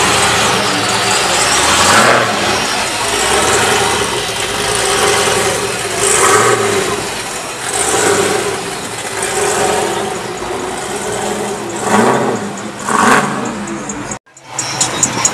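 Car engines running and being revved in several bursts. Near the end the sound cuts out abruptly and music with a steady beat starts.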